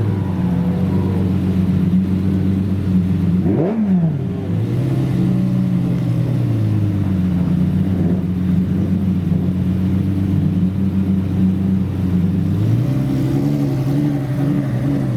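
Supercar engine idling, with one quick throttle blip about three and a half seconds in that shoots up in pitch and drops straight back. The idle pitch shifts a little a few times afterward.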